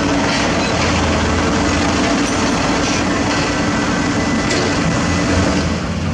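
Heavy diesel construction machinery running with a steady low drone, with sharp metallic clanks a few times, like crawler tracks clattering.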